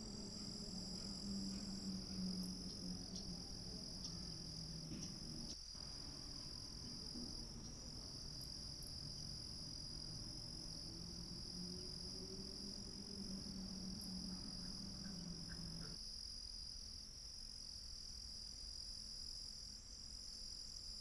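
Chorus of insects such as crickets, a steady high-pitched trilling. A low droning hum sits under it and stops abruptly about three-quarters of the way through.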